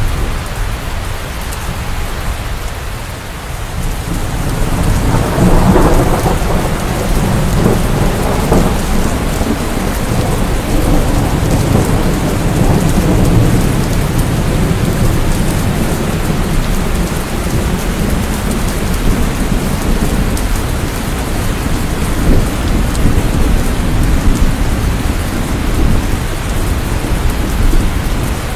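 Steady heavy rain with a long roll of thunder that swells about five seconds in and keeps rumbling on.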